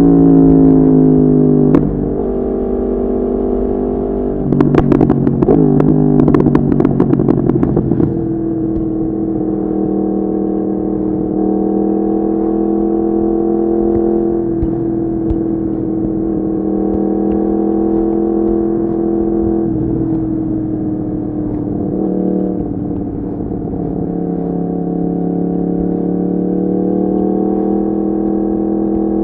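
Yamaha MT-10's crossplane inline-four through an Akrapovic exhaust, heard while riding. The engine note falls away at the start, turns louder and rough-edged for a few seconds about five seconds in, then settles into steady cruising with a few small steps in pitch.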